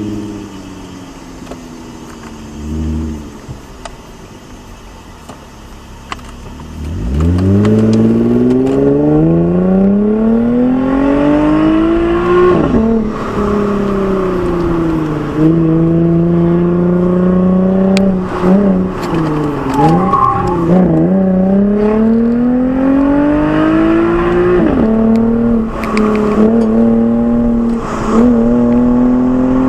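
Lexus IS with a Fi aftermarket exhaust, heard from the exhaust while driving. It is quieter for the first few seconds while the revs fall, then accelerates hard about seven seconds in. The pitch then climbs and drops repeatedly, with several sudden breaks where it shifts gear.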